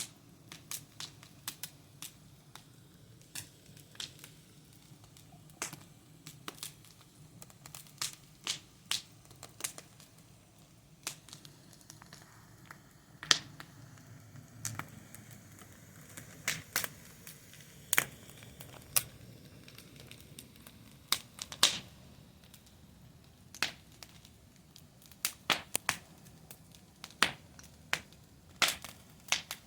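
Wood fire crackling, with irregular sharp pops and snaps over a faint low rumble, the pops coming thicker near the end.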